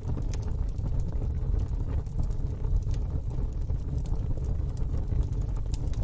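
Wood fire burning in a fire pit: a steady low rumble with scattered sharp crackles and pops.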